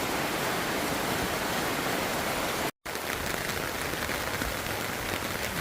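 Steady heavy rain falling, an even hiss that cuts out completely for a moment about halfway through.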